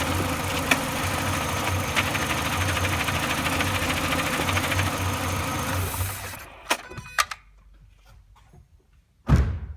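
Renault Clio 2 RS's 2.0-litre four-cylinder engine idling with a fast mechanical rattle, the noise the owner hears only at idle with the clutch pedal released and suspects comes from the clutch or gearbox. About six seconds in the engine is switched off, followed by two sharp clicks and, near the end, a single heavy thud.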